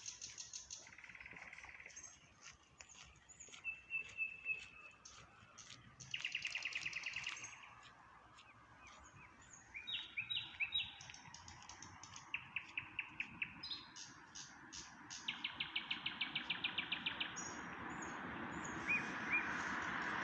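Nightingale singing: varied phrases of rapid trills, runs of fast repeated notes and sharp clicking notes, separated by short pauses. A steady rushing noise grows louder near the end.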